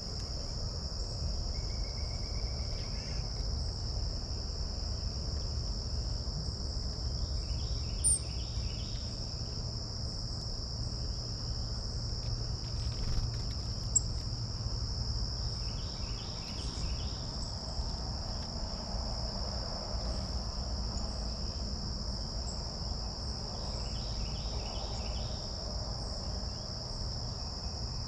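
Steady, high-pitched chorus of insects trilling without a break. A short patterned call repeats about every eight seconds beneath it, over a low rumble, with two brief clicks near the middle.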